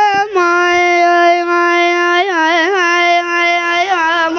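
A child singing a long, drawn-out "aman" without accompaniment: one held note with a brief break just after the start and small ornamental turns in the voice near the middle and again near the end.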